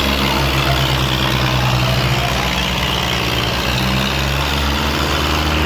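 Tractor diesel engine running steadily with a low, pulsing drone.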